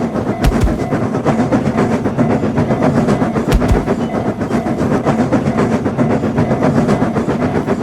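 Train sound effect: a train running with dense, rapid rail clatter, with two low thumps about half a second and three and a half seconds in.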